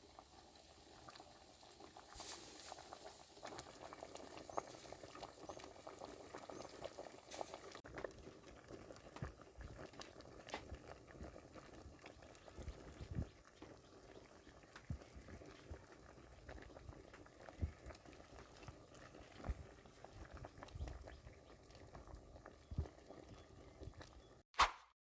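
Pot of bamboo-shoot curry bubbling as it simmers, a faint steady bubbling with irregular small pops. One sharp click sounds near the end.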